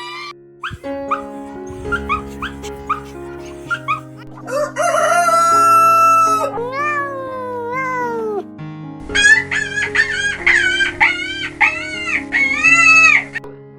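A rooster crowing over light background music, about four and a half seconds in, with a long held note and then falling syllables. A run of about eight short, arching, high calls follows near the end.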